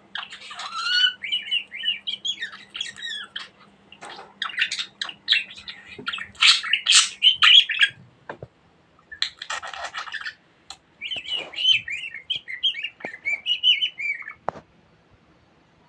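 Budgerigar warbling and chattering in quick, high chirpy phrases, in two long stretches with a short pause about eight seconds in.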